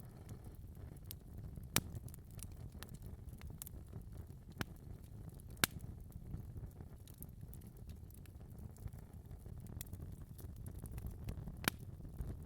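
Wood fire in a fireplace crackling: a steady low rumble of the flames with irregular sharp pops and snaps, the loudest about two seconds in, twice near the middle and once near the end.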